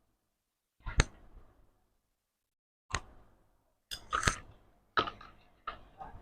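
Sharp clicks and knocks from handling tools and ceiling fan parts during repair, in about five separate bursts with silence between them.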